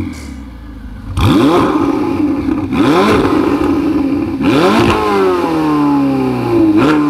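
Ferrari 488 GTB's twin-turbo V8 revved hard through its exhaust: after a second of idle, four quick blips, each rising sharply and dropping back toward idle, the third one sinking slowly.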